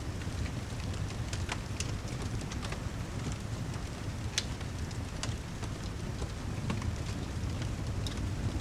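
Ambience of steady rain under a low, even rumble, with fireplace crackles: scattered sharp pops and snaps, the loudest about four and a half seconds in.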